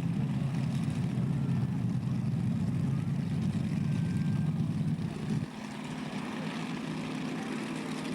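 Heavy tractor-pulling engine noise, a dense steady rumble that drops abruptly about five and a half seconds in to a quieter, steady hum.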